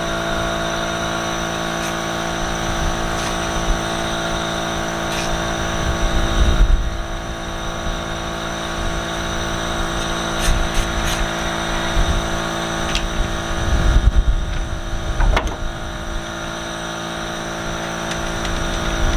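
A steady mechanical drone, an engine or motor running at an even speed, with a few sharp clicks and short low rumbles over it.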